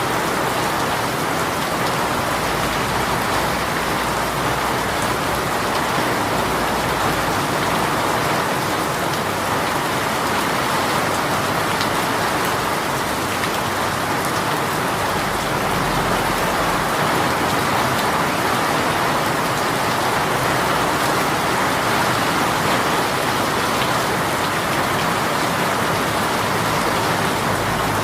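Heavy rain from a sudden downpour falling steadily on surfaces, a dense even hiss of drops with scattered drop ticks.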